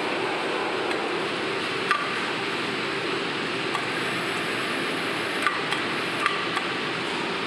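Steady factory machinery noise with a few sharp metallic clinks, the loudest about two seconds in and a cluster of three between five and a half and six and a half seconds in.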